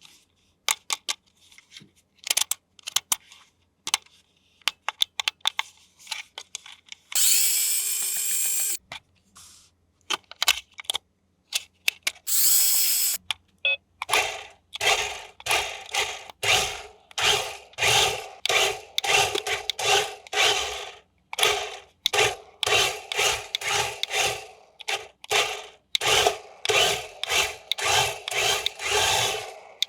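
Scattered clicks and handling, then a small electric motor whirring twice in short runs (the first about a second and a half, the second shorter). From about halfway on, rhythmic rubbing or scraping strokes, about two a second.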